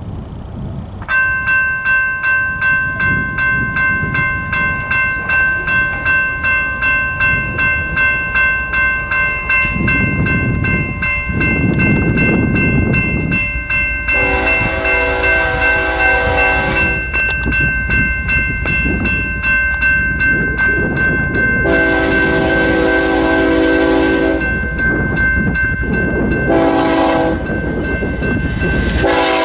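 Grade-crossing bell ringing steadily at about two strokes a second while a freight train's diesel locomotive approaches with a rising rumble. The locomotive's multi-note air horn sounds the crossing signal: two long blasts, a short one, and the start of a final long one.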